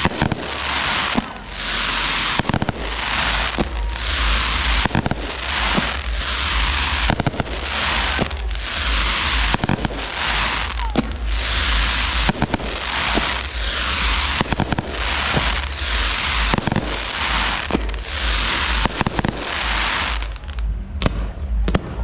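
Fireworks display: a rapid run of launches and bursts, each a hissing, crackling wash with a sharp bang, coming about once a second and thinning out near the end.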